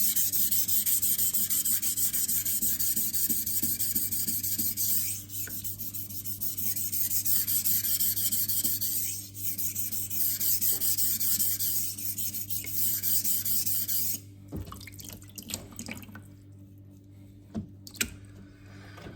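Knife blade scraping on a wet 800-grit silicon carbide whetstone, a continuous gritty rasp during sharpening strokes. It stops about fourteen seconds in, followed by a few light knocks.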